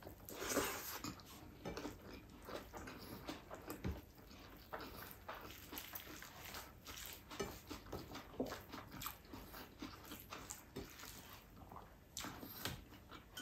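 Faint close-up eating sounds: a person chewing a mouthful of rice and sardines with wet smacking and clicking of the lips, and fingers working rice on a plate. The loudest bit comes about half a second in, as the food goes into the mouth.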